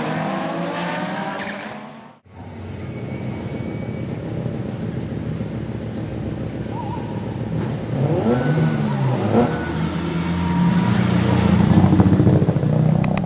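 Race car engine revving up with rising pitch, cut off suddenly about two seconds in. Then engine running again with short rev blips, growing louder near the end.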